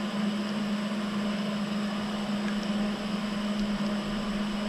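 Steady machine hum: a constant low drone with an even hiss over it, unchanging throughout, with a few faint ticks.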